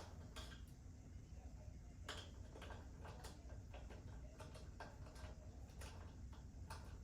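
Faint, irregularly spaced clicks and taps, about one or two a second, over a low steady hum.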